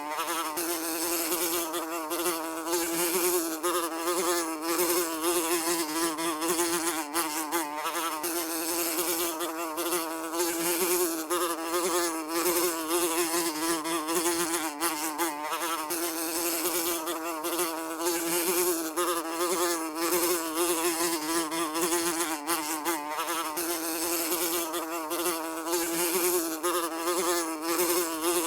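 A housefly buzzing continuously, its wingbeat drone holding a steady pitch with a slight waver up and down, as if circling close by.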